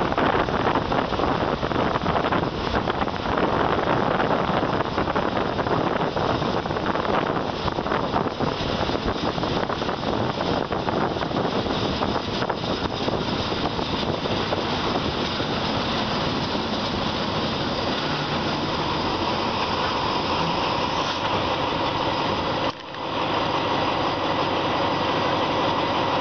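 Train running with a steady, loud mix of engine noise and rolling noise, with a few steady tones coming in over the second half. The sound drops briefly and sharply about 23 seconds in.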